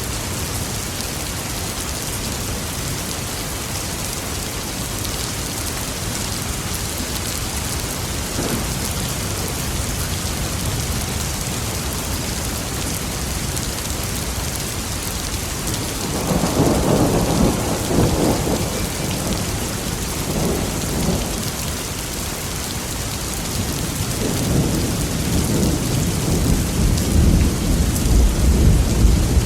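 Steady heavy rain with rolling thunder. A rumble swells about halfway through, and a longer, deeper roll builds near the end and is the loudest part.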